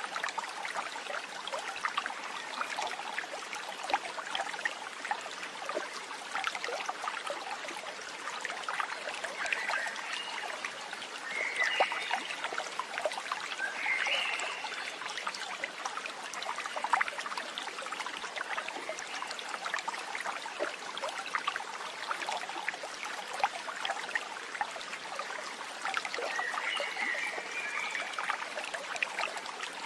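Water trickling and babbling steadily, as of a small stream, with a few short high chirps about ten to fifteen seconds in and again near the end.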